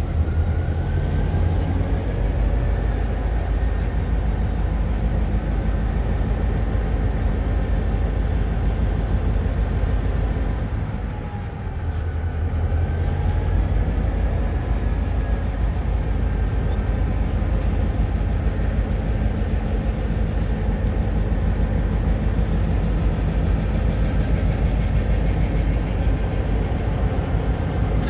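Diesel locomotive engines running steadily, a deep pitched drone; about eleven seconds in the sound briefly drops, then the engine pitch rises again as they pick up.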